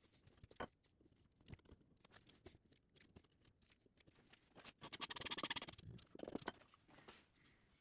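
Faint scratching and scraping of a hand tool working the edges of wood veneer as the overhang is trimmed off, scattered light clicks with a denser rasping stretch about five seconds in.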